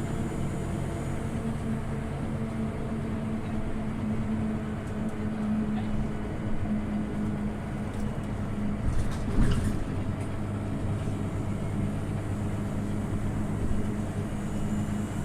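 Scania OmniLink city bus engine running with a steady hum, heard from inside the bus while it drives. A short knock or rattle comes about nine seconds in.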